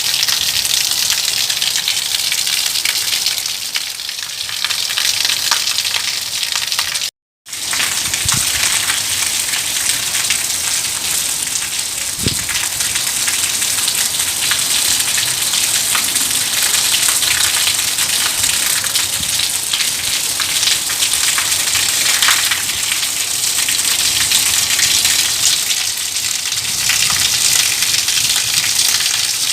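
Heavy rain falling steadily, a dense patter of drops hitting a surface. The sound cuts out to silence for a moment about seven seconds in, then the rain carries on.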